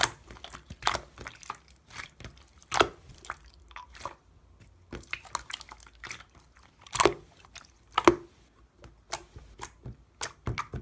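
Clear, jiggly slime squished and pressed by hand, making irregular wet clicks and pops, the loudest about three seconds in and twice more around seven and eight seconds in.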